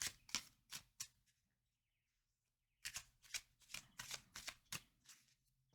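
A deck of Kipper cards being shuffled by hand: quick papery slaps, about three or four a second, with a break of nearly two seconds in the middle.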